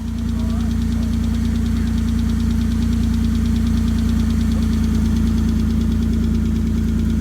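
Mitsubishi 3000GT SL's V6 engine running at idle with a steady, fast, rhythmic knocking: a horrendous rod knock.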